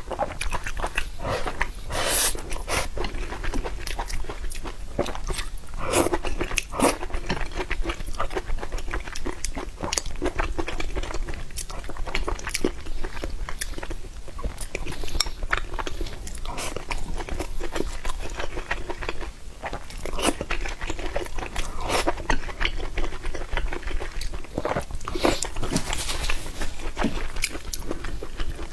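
Close-miked eating: a person chewing and biting food, with irregular crunches and wet mouth clicks.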